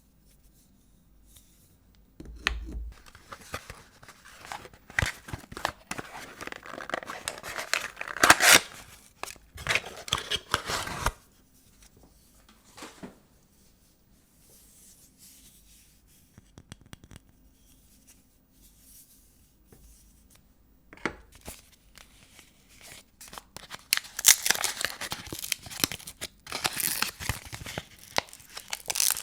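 Paper wrapping of a bar of soap being torn and crinkled open by hand, in two busy spells with a quieter gap in the middle.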